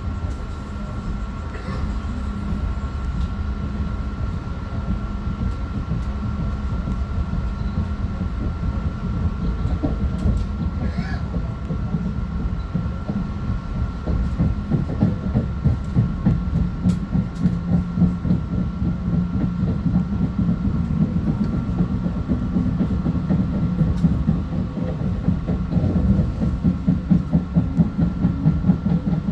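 Long Island Rail Road M3 electric train running on the track, heard from inside: a steady rumble with a constant hum, and from about halfway through a quick, regular clatter of the wheels that grows louder.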